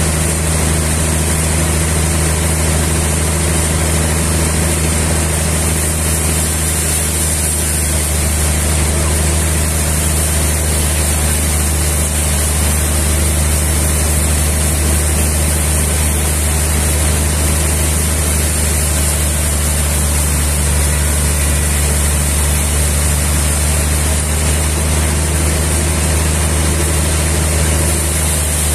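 A sawmill's engine running steadily at a constant speed.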